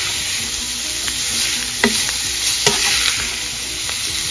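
Boneless chicken pieces with dried red chillies sizzling in hot oil in a pan while a spatula stirs and tosses them, with a couple of sharp knocks of the spatula against the pan about two and three seconds in.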